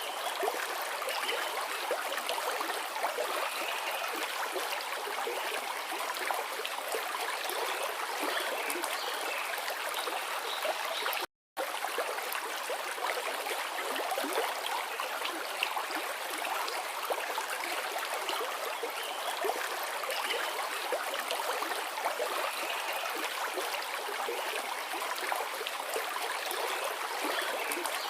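Forest river flowing: a steady, even rush of running water. The sound cuts out completely for a split second about eleven seconds in.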